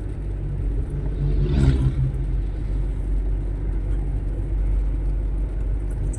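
Steady low rumble of a motor vehicle on the road, with a vehicle's engine swelling and passing close about one and a half seconds in.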